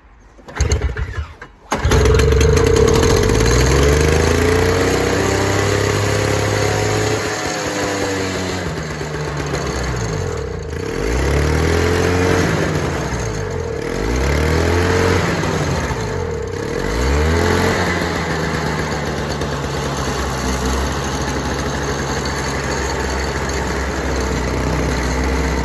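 Toro two-stroke snowblower engine pull-started after a spray of starting fluid in place of a missing primer bulb, catching about two seconds in and running. Its speed sags and picks back up about four times before it settles into a steady run.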